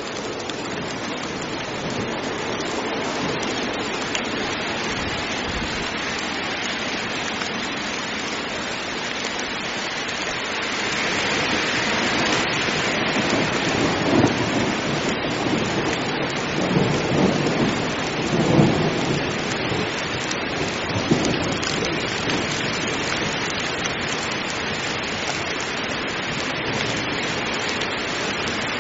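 Heavy rain falling steadily, with thunder rumbling low several times through the middle of the stretch.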